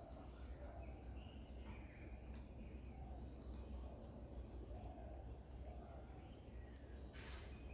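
Faint garden ambience: small birds chirping in short repeated calls over a steady high-pitched insect drone and a low rumble, with a brief rustle about seven seconds in.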